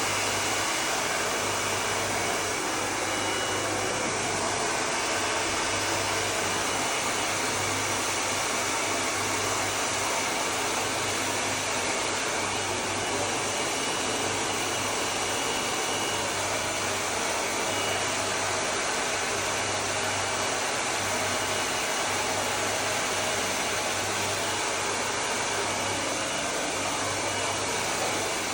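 Hair dryer blowing steadily at a constant speed.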